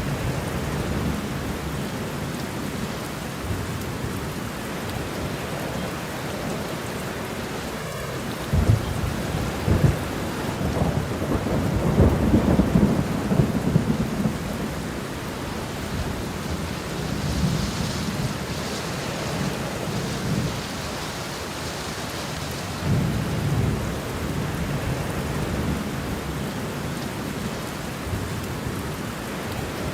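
Steady rainfall with thunder rolling low underneath. The loudest rumble builds about nine seconds in and lasts several seconds; softer rumbles follow later.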